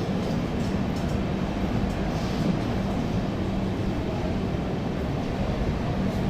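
Express passenger train running through a station at speed without stopping: a steady rumble of wheels on rail with a steady hum.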